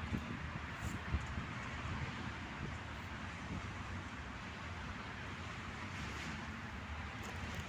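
Steady outdoor background noise, a low rumble under an even hiss, with a couple of brief knocks about a second in.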